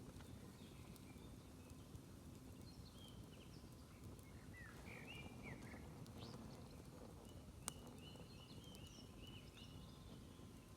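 Faint outdoor ambience of a smoky campfire: small birds chirping off and on over a low steady rumble, with a single sharp crackle from the fire about two-thirds of the way in.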